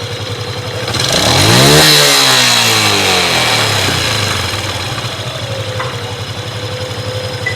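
Yamaha 135LC single-cylinder engine idling, revved once about a second in and falling back to idle by about three seconds in, with a droning hum from the clutch side when revved. The drone comes from free play in the clutch.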